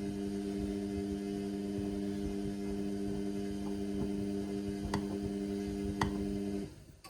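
Indesit washing machine running on a synthetics cycle with a steady electric hum and a few faint ticks. The hum cuts off suddenly near the end.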